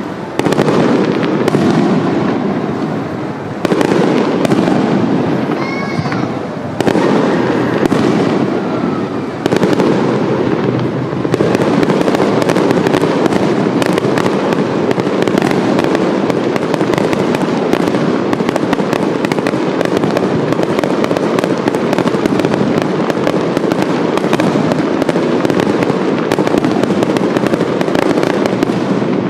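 Aerial fireworks going off: big shell bursts every few seconds with crackling in between, then from about eleven seconds in a continuous rapid barrage of bursts and crackle.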